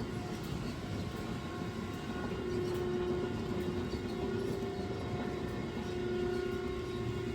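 A machine or engine running steadily, with a hum of a few held tones that shift slightly in pitch.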